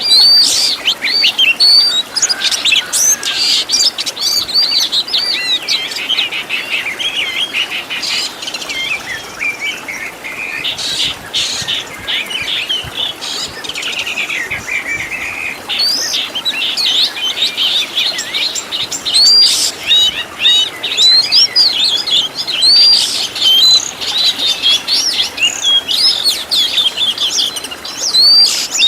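Oriental magpie-robin (kacer) singing a fast, continuous run of varied whistles and chirps, with short sharp notes mixed in. It is a full, varied 'masteran' song used to teach caged songbirds.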